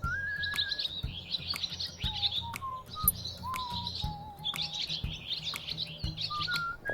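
Small birds chirping and twittering in quick, dense runs, over background music with a steady beat.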